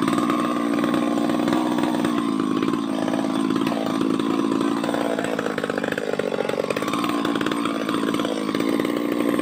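Two-stroke chainsaw running at full throttle in a tree cut. Its engine note sags and recovers about three seconds in, and again for a couple of seconds near the middle, as it bogs under load with the bar getting pinched in the cut.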